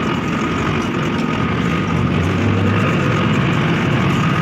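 Mahindra 605 tractor's diesel engine running steadily under load, with a thin steady high whine over it.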